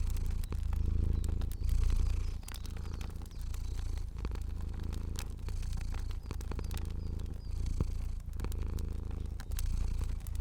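Cat purring in a low rumble that swells and dips in cycles of about a second, with the small sharp pops and crackles of a fire scattered throughout.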